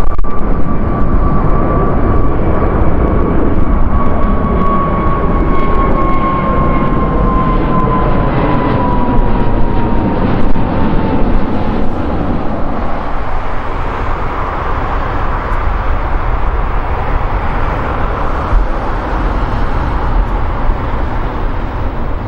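Jet airliner's engines running loud as it passes close by, with a high engine whine that slowly falls in pitch over about ten seconds. The rumble then eases as it moves away.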